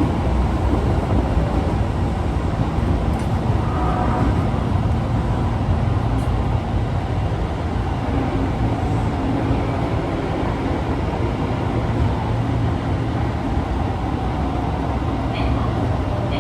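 Osaka Metro 22 series subway car 22962 running, heard as a steady loud rumble with a low hum that strengthens about halfway through. This is the car known for making an abnormal noise.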